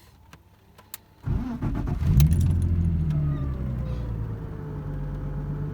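BMW E34 engine started, catching about a second in and settling to idle. A whining hum from the Getrag 260 gearbox comes in with it, dropping slowly in pitch as the idle settles. The hum persists despite a MANNOL gearbox additive, and the owner suspects worn bearings.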